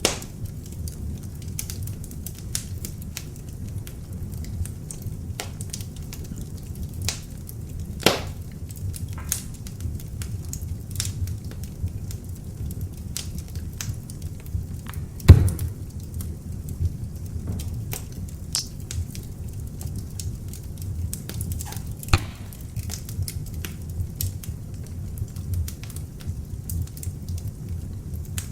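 Beech-wood log fire burning in an open fireplace: a steady low rumble of flames under frequent sharp crackles. Louder pops come about 8 and 22 seconds in, and the loudest about 15 seconds in.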